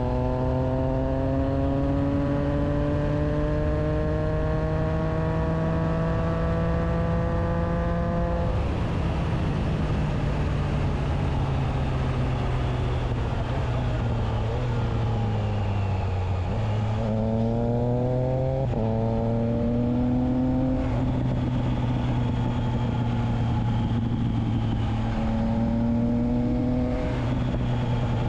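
Triumph Trident 660's three-cylinder engine running through a Spark exhaust with the dB killer fitted, under way: the revs climb steadily for about eight seconds, then the note drops away and falls further, before climbing again through a couple of quick gear changes.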